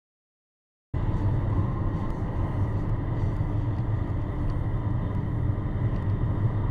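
Steady low rumble of a car on the move, road and engine noise as picked up inside the vehicle, cutting in suddenly about a second in.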